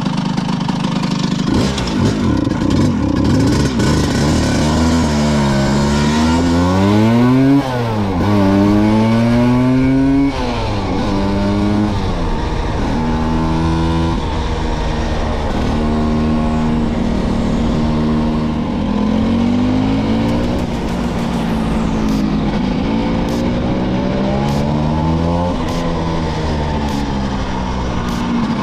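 Vespa V50 two-stroke scooter engine pulling away and accelerating through the gears. The revs climb and drop sharply at each shift for the first ten seconds or so, then settle into steady cruising with small rises and dips.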